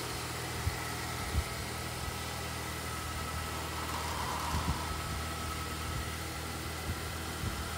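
A car engine idling with a steady low hum, with a few soft thumps.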